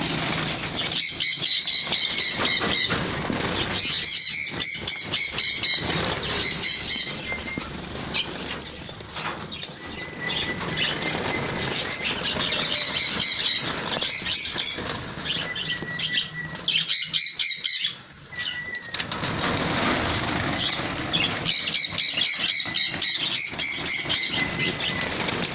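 Pin-tailed parrotfinches calling in bouts of rapid, high, buzzy chirps, each bout lasting a second or two, about half a dozen times.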